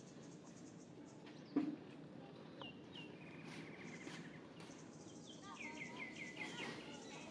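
Small birds chirping: a couple of short falling chirps, then a quick run of repeated falling notes near the end. A single thump about one and a half seconds in is the loudest sound.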